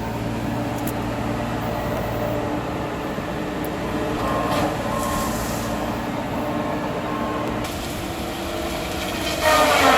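Logging machinery engine running steadily, with a louder, pitched surge near the end.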